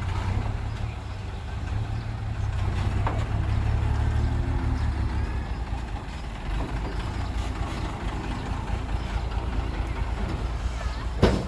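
Heavy diesel engine of a truck or earthmoving machine running with a deep steady rumble, growing louder around four seconds in and then settling again, with a single sharp knock near the end.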